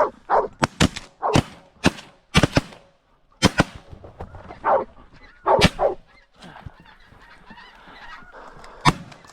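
A volley of shotgun shots from several hunters, about ten in all, several in quick pairs, mostly in the first four seconds with a few more later. They are mixed with the honking calls of snow geese.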